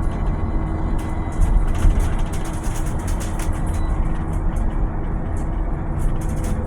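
Volvo BZL electric bus running: a steady low rumble with a constant hum held at a few fixed pitches, and scattered light rattles and clicks throughout.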